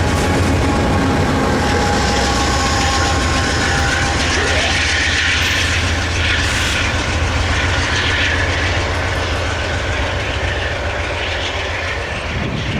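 Train rolling past: a steady low rumble of the railcars with wheel-on-rail noise and faint thin squeals.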